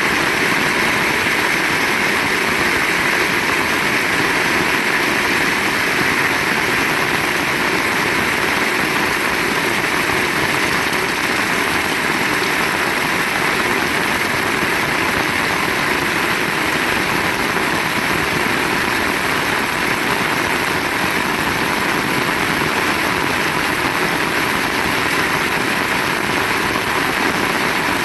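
Heavy rain pouring steadily: a loud, even hiss with no breaks or sudden claps.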